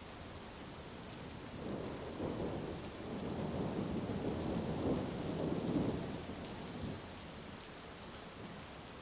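Heavy rain falling steadily, with a long roll of thunder that builds from about two seconds in, is loudest around six seconds and dies away near seven seconds.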